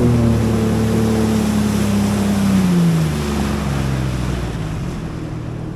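Jet ski engine running, its note dropping about halfway through as it slows and then idling lower, over a hiss of water and wind.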